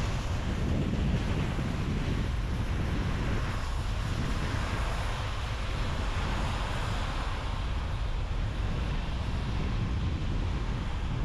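Steady road and wind noise of a car driving at speed, an even rushing sound without clear engine tones or knocks.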